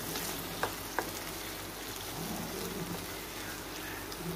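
Tomato slices, browned onions and ginger-garlic paste sizzling in hot oil in a kadai as they are stirred, with two sharp taps of the spatula on the pan about a second in.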